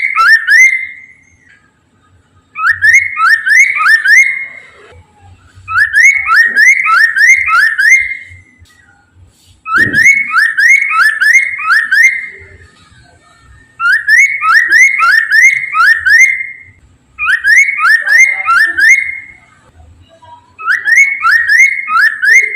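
Poksay mandarin, a laughingthrush, singing loudly in repeated phrases of four or five rising whistled notes, about seven phrases with short pauses between them. A short low knock sounds about ten seconds in.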